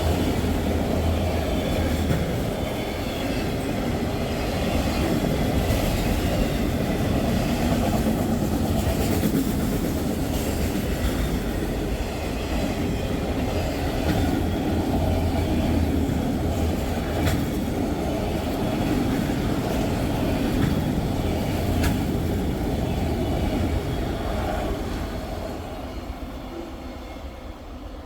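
A train's cars rolling past close by, wheels clicking over the rail joints. The sound fades away near the end as the train moves off.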